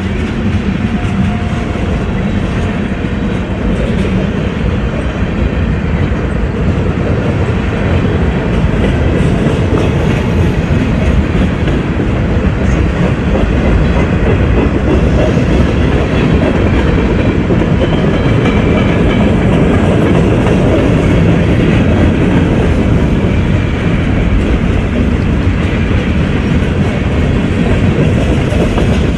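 Freight or passenger railroad cars rolling past at close range: a steady, loud rumble of wheels on rail with clickety-clack from the rail joints.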